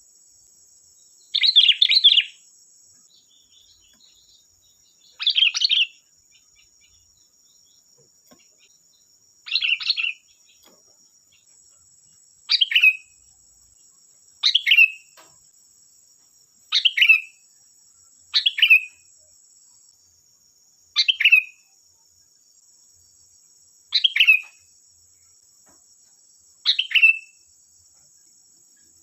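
Sooty-headed bulbul singing: ten short phrases, each under a second, repeated every two to four seconds over a faint steady high hiss.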